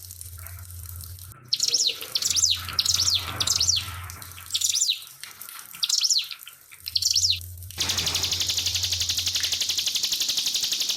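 A prinia (ciblek pinus) sings repeated bursts of short, rapid high chirps over a faint water trickle and a low steady hum. About eight seconds in, the song cuts off abruptly and gives way to a steady, rapidly pulsing high hiss.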